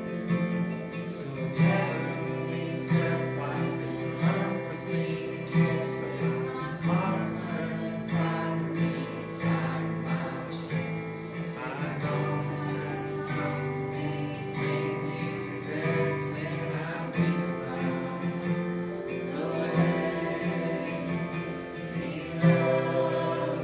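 Acoustic guitar strummed steadily as part of worship music.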